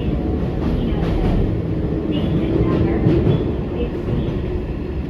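Eizan Electric Railway 900 series 'Kirara' electric train running, heard inside the car: a steady rumble of the wheels on the rails and the running gear.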